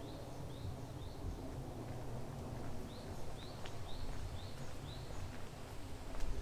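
A small bird calling in runs of short rising notes, about two a second: a few at the start, then five more about three seconds in. A steady low rumble lies under it.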